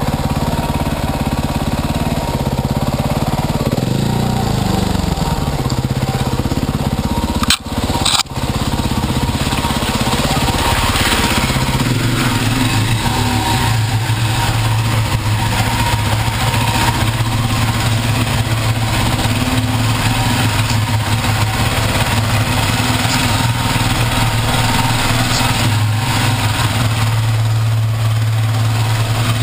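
Dirt bike engine running, its pitch falling away about four seconds in as the engine eases off, then settling into a steady idle. The sound cuts out twice briefly a little before eight seconds.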